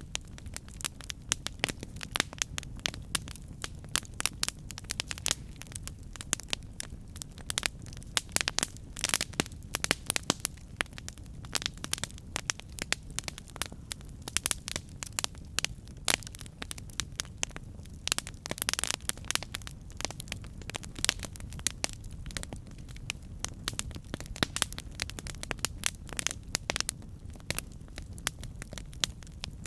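Campfire burning, with dense irregular crackles and pops of burning wood over a steady low rumble of the flames.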